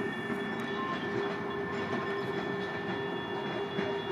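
Canadian National freight train rolling past on the rails: a steady rumble of the cars, with steady high wheel-on-rail tones and scattered faint clicks.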